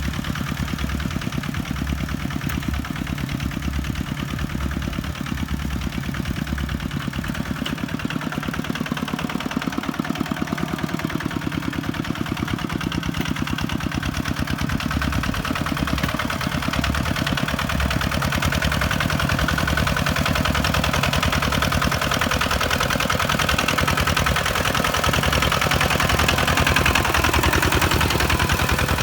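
Kubota farm tractor's diesel engine running steadily under a low, even pulse, growing somewhat louder in the second half.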